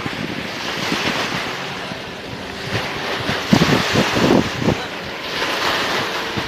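Wind buffeting the microphone over open water, with a boat engine's steady drone underneath. Heavier gusts hit about three and a half seconds in.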